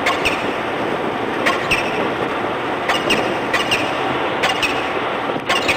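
Strong wind buffeting the nest camera's microphone as a steady rushing noise. Short sharp clicks, mostly in pairs, break through about once a second.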